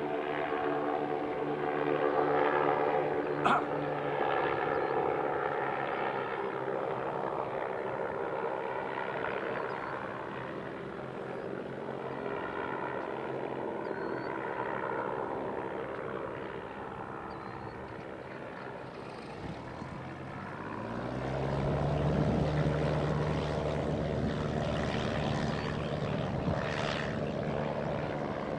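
Propeller engines of an airship, two Rotax 912 piston engines, droning as the blimp flies by. The drone fades about two-thirds of the way through, then a lower, stronger engine drone rises in and holds steady.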